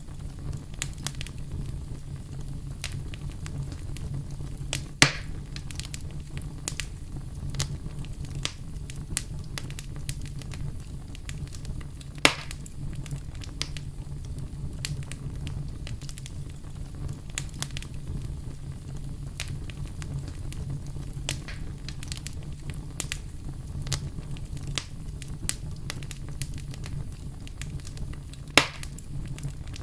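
Wood fire crackling, with many small snaps over a steady low rumble and three louder pops: about five seconds in, about twelve seconds in, and near the end.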